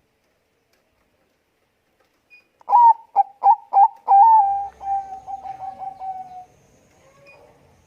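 Zebra dove (Bangkok perkutut) cooing its song. A few seconds in it gives a run of about five clipped, separate coos, then a faster rolling series of coos at the same pitch that fades away.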